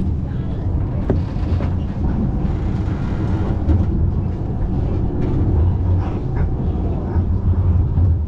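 Interior of a moving city tram: a steady low rumble from the running gear and wheels on the rails, with a brief rise in rolling hiss in the middle and a sharp click about a second in.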